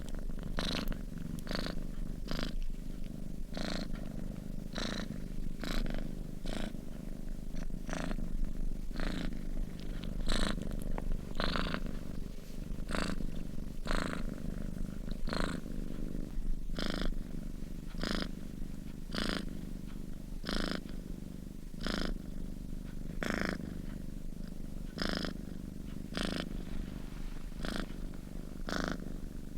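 A sleeping domestic cat purring steadily, the purr swelling in an even rhythm with its breathing.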